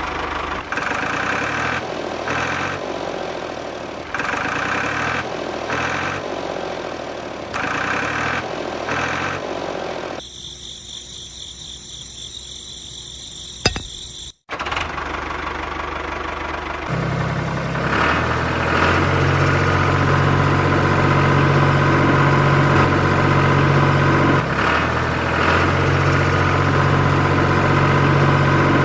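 Tractor engine sound, idling steadily, in several edited segments with a hard cut about fourteen seconds in; the steadiest idle comes in the last third.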